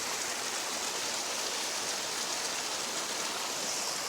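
Steady rush of running water, like a mountain stream, with no breaks or separate splashes.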